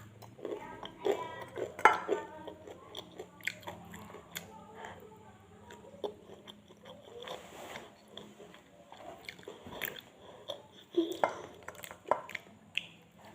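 Close-up chewing and biting of crispy fried chicken, with irregular sharp crunches of the coating; the loudest come about two seconds in and about eleven seconds in.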